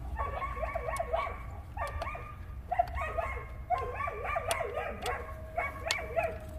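A dog whining and yipping in short, repeated, pitched calls, with a few sharp clicks in between.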